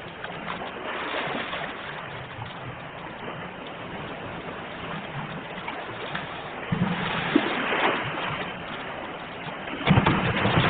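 Sea waves washing in on the shore, a steady rush of surf that swells about seven seconds in and breaks louder near the end.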